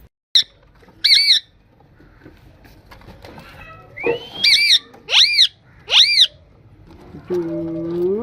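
Parrot squawking: short, sharp arched calls, two near the start and then three in quick succession about four to six seconds in, each of the later ones led by a quick rising sweep. A lower, steady drawn-out call lasting about a second comes near the end.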